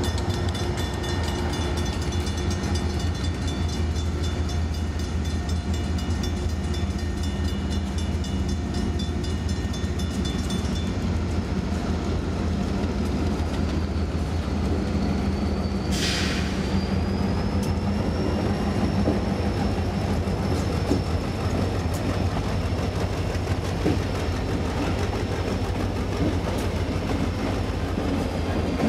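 A freight train of mostly tank cars rolls steadily past with a continuous rumble and wheel clatter. About halfway through, a high, steady wheel squeal sets in and holds.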